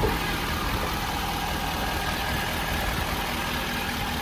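Ford 6.7 L Power Stroke V8 turbodiesel idling steadily.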